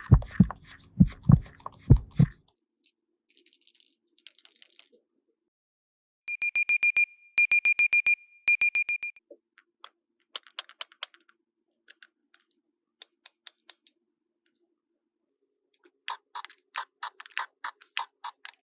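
Small plastic toy pieces knocked and handled, with a brief crinkle, then an electronic toy beeping in three quick runs of high, even beeps, followed by scattered light plastic clicks.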